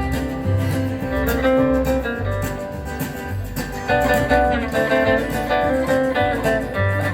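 Live country band playing an instrumental break: a lead guitar picks a melody over bass notes and drums.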